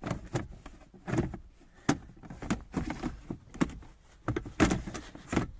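Irregular plastic knocks and clicks as a car's unscrewed glovebox is worked out of the dashboard, with a sharp click about two seconds in and a cluster of louder knocks near the end.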